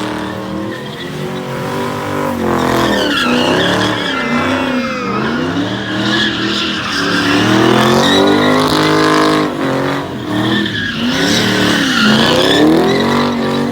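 Car engine revving repeatedly at a car meet, its pitch climbing and dropping again about five times, with a steady hiss above it.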